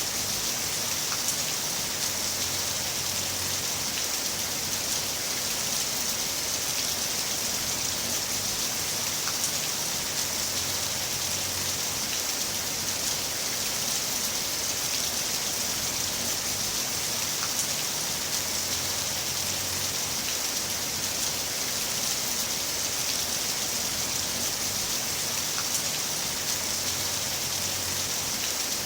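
Heavy rain falling steadily: an even hiss with a few scattered sharp drop ticks.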